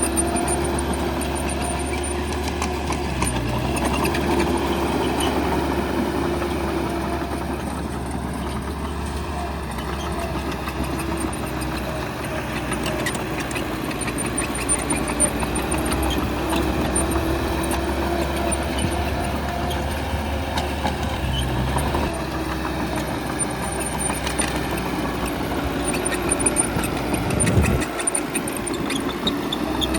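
Diesel engine of heavy earthmoving machinery running steadily, its pitch drifting a little with load, with one brief sharp knock near the end.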